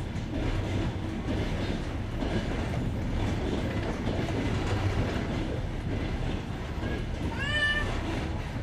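Passenger train wheels clattering steadily over jointed rails, heard from inside the carriage. About three quarters of the way in, a short pitched sound rises briefly over the rumble.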